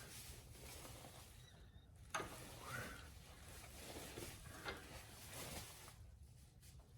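A few faint, sharp clicks of hand tools and small parts being handled, over a steady low hum.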